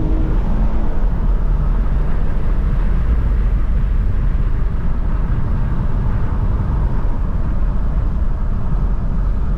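Ford Taurus being driven, a steady low rumble of engine and road noise.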